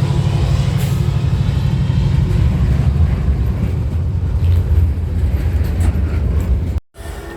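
Train running by with a loud, low rumble and steady hums. Near the end it cuts out abruptly, then comes back quieter.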